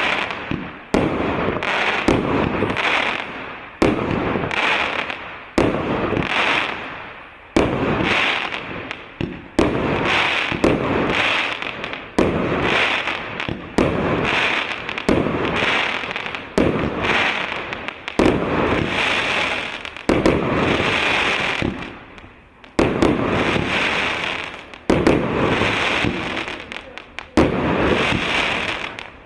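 A 168-shot, 1.25-inch firework cake firing: a sharp burst about once a second, each followed by a fading rush of noise.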